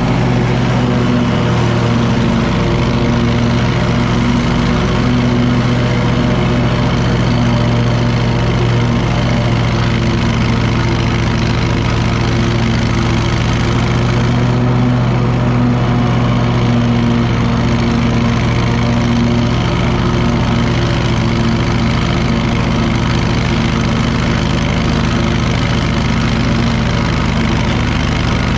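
Commercial lawn mower engine running at a steady speed.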